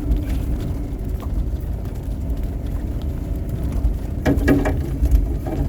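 Snowplow vehicle's engine running steadily with a low rumble as the plow backs up for another pass through deep snow.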